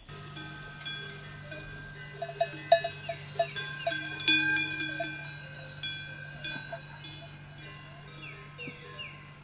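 Bells ringing and clanking irregularly: several held, ringing tones and a cluster of sharp clanks about two to five seconds in, over a steady low hum.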